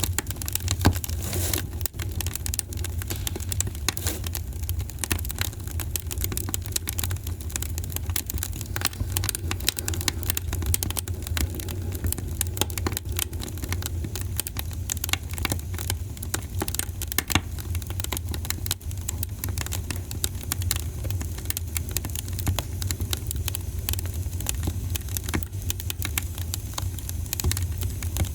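Wood fire crackling in a fireplace: many irregular sharp snaps and crackles over a steady low rumble.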